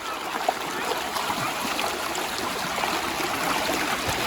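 Flowing river water: a steady rush with small gurgles, growing a little louder towards the end.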